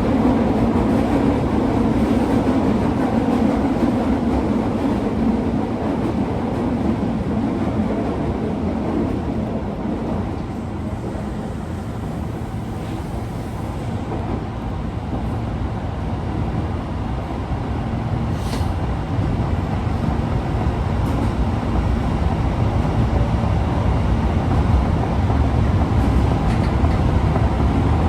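Osaka Metro Tanimachi Line 22 series subway car running on the line: a steady, loud rumble of wheels and running gear. The noise eases a little about halfway through and then builds again.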